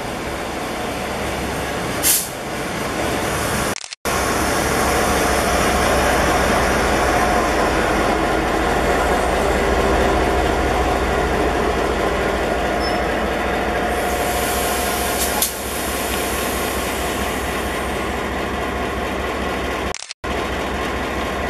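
Passenger train hauled by diesel-electric locomotive R40 running past: a steady, loud rumble of engine and wheels on the rails. It is broken by two abrupt cuts, at about 4 seconds and near the end.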